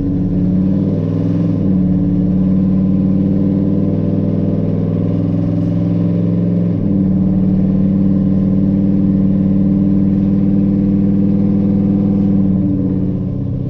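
Cammed 5.3-litre LS V8 in a Chevy S10 idling steadily, its idle speed shifting slightly a few times. It is running on all eight cylinders now that a misfire from a loose plug wire and fouled plug has been fixed.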